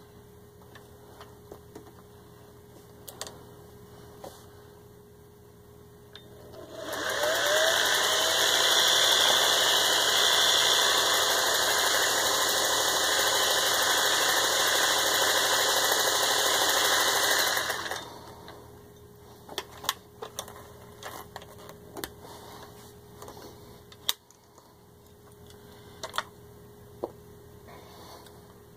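Singer 403A sewing machine running at a steady speed for about eleven seconds, sewing a crescent stitch pattern from a fashion cam, then stopping. Light clicks and knocks come before and after as the machine is handled.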